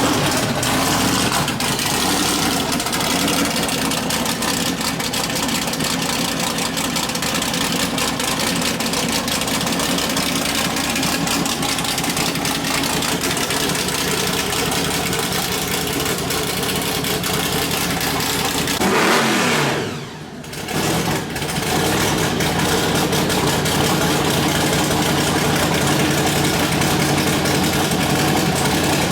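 Car engine running steadily, with a rise in revs about two-thirds of the way through, a brief drop in level, then steady running again.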